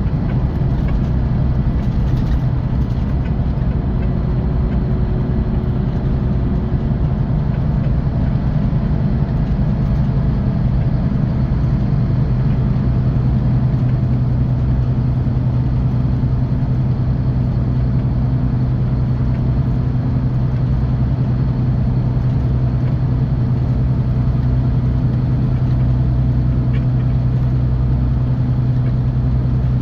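Scania K450 coach's 13-litre six-cylinder diesel running at a steady cruise, heard from inside the bus: a constant low drone over an even rush of road noise.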